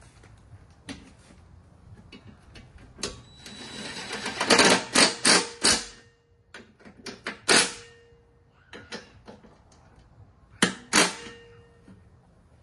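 Metal tools and mower parts knocking and clanking while being handled. The loudest cluster of strikes comes about halfway through and two more near the end; several of the strikes ring briefly like struck metal.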